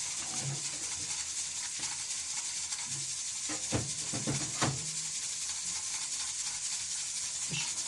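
A steady hiss, with two sharp knocks close together a little before the middle.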